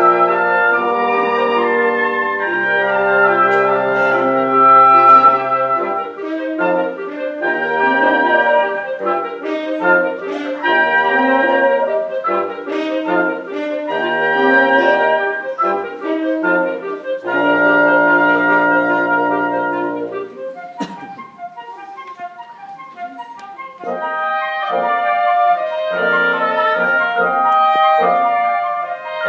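Instrumental ensemble playing a classical-style piece, with wind instruments holding chords over low bass notes. It thins to a quiet, sparse passage about two-thirds of the way through, then builds again.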